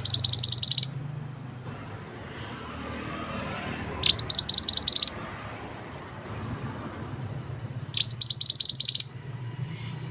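Mantenan (oriental magpie-robin) calling: three bursts of rapid, repeated high chattering notes, about ten notes and a second long each, spaced about four seconds apart. A faint low hum runs underneath.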